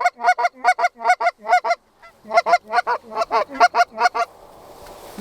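Goose honks in a fast, even series, about four to five a second, one call at a time, breaking off briefly about two seconds in and again near the end.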